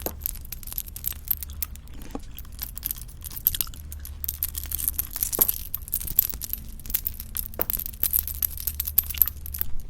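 Close-miked ASMR eating sounds: a dense, continuous run of sharp, crisp clicks and crackles, with no talking.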